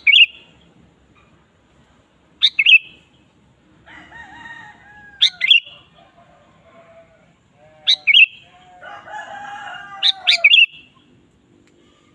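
Sooty-headed bulbul calling: a sharp, loud two-note call repeated about every two and a half seconds, five times. Softer, lower warbling phrases run between the calls twice.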